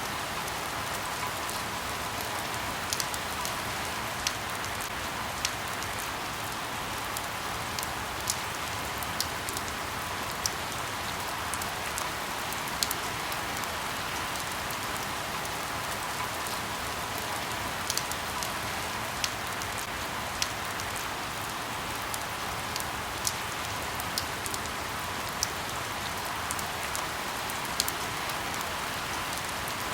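Steady light rain falling on leaves: an even hiss with frequent individual drops ticking sharply.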